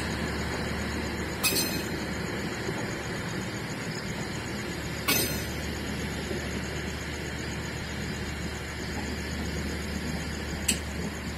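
Railway cars moving on the track, with a steady low rumble and three sharp metallic clacks a few seconds apart.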